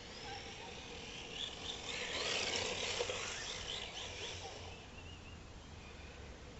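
Tyres of an RC drift car sliding across the concrete of a skate park: a hiss that swells about two seconds in and fades out by about five seconds, with faint high chirps over it.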